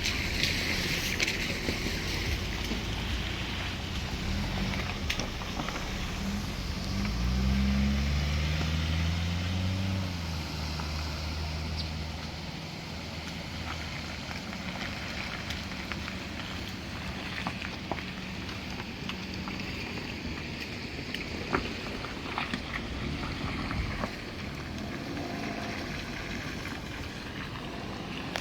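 A vehicle engine running. Its pitch rises as it revs about seven seconds in, it is loudest for a few seconds, and it then settles to a steady low hum under a noisy background.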